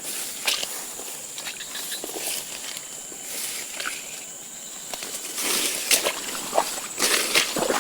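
Irregular rustling and scraping, as of brushing through vegetation, growing more frequent and louder about five seconds in, over a steady high-pitched insect drone.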